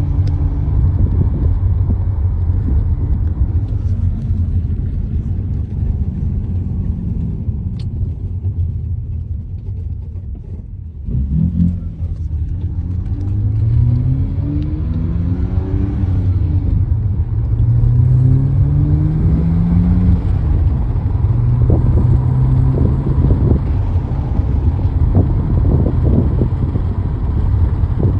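A car heard from inside the cabin: a steady low rumble of engine and road noise. Between about 11 and 20 seconds in, the engine note rises several times as the car speeds up.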